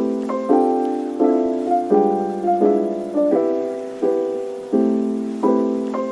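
Background music: a soft piano or electric-piano chord pattern, chords struck at an even, unhurried pulse and left to ring and fade.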